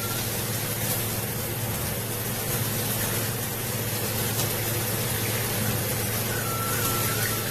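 Brass high-flow shower head spraying water steadily at full pressure, with no flow restrictor fitted.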